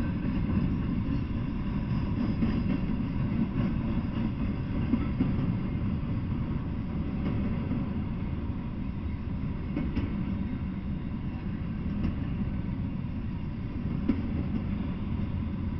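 Double-stack intermodal freight train rolling past: a steady low rumble of loaded container well cars on the rails, with a few faint clicks in the later part.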